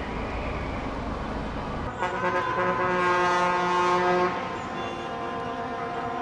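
Road vehicle noise, then about two seconds in a loud vehicle horn sounding a long held chord of several tones, which eases off after about two and a half seconds into a fainter steady tone.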